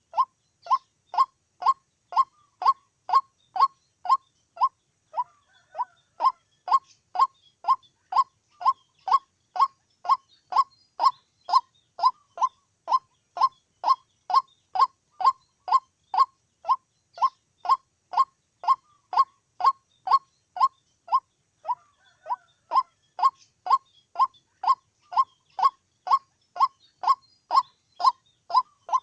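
White-breasted waterhen calling: a short 'kuok' note repeated evenly, about two a second, with two brief breaks about five seconds and twenty-two seconds in.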